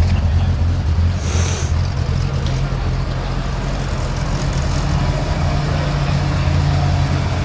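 Car engine idling with a steady low rumble; a short hiss about a second in.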